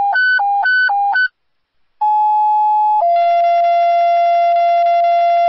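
Fire dispatch alert tones over the radio: a high-low alternating warble ends about a second in, then, after a short gap, a two-tone sequential page of one steady tone held about a second followed by a lower tone held about three seconds. These are the paging tones that alert fire units to a call.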